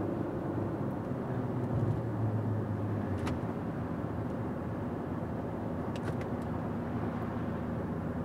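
Steady engine and road noise inside the cabin of a VW Touareg 3.0 TDI, its V6 diesel pulling a large caravan uphill. The engine note sits higher for the first few seconds, then settles lower.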